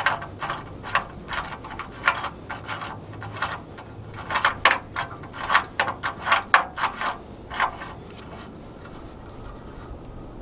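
Irregular metallic clicks and clinks of hand tools working on steel, fitting and tightening a bracket on a tractor. They come thicker around the middle, then stop a few seconds before the end.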